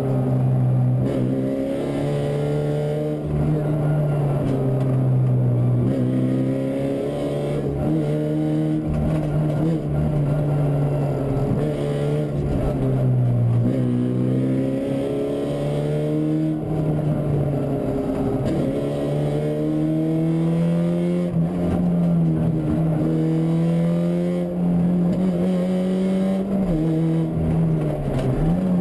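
Fiat Punto 1.8 rally car's four-cylinder engine heard from inside the cabin on a stage run, its revs climbing and dropping again and again through gear changes and braking for corners.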